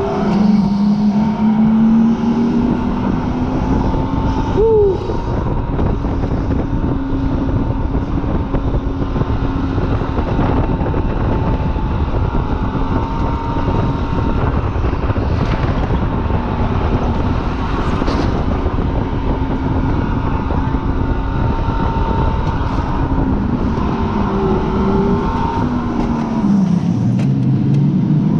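Supercharged car engine held at high revs on a race track, heard from on board over steady road and wind noise, with a quick blip in pitch about five seconds in and the revs falling away near the end.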